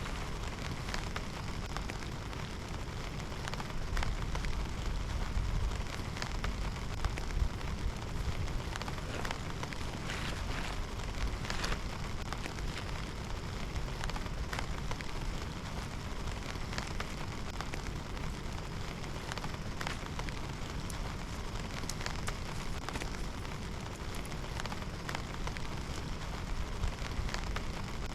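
Heavy rain falling steadily, with many sharp individual drop hits over a low rumble.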